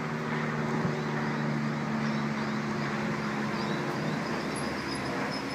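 Sydney Trains Waratah (A set) electric train standing at the platform, its equipment giving a steady low hum made of several even tones over a wash of noise; the hum drops away about four seconds in.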